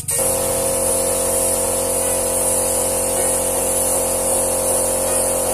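Air-powered paint spray gun hissing steadily while its compressor runs with an even hum.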